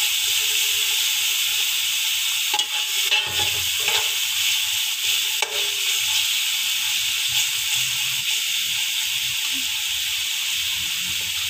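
Browned onions, julienned ginger and garlic sizzling steadily in hot oil in an aluminium pot. A spatula stirs them, scraping and knocking against the pot a few times in the first half.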